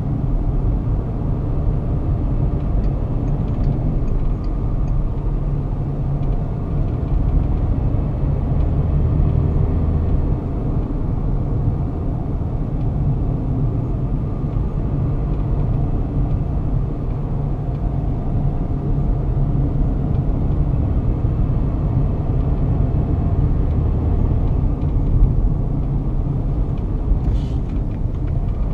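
Volkswagen Touareg's 2.5-litre five-cylinder R5 TDI turbodiesel pulling steadily at road speed with tyre and road rumble, heard from inside the cabin. A brief sharp noise comes near the end.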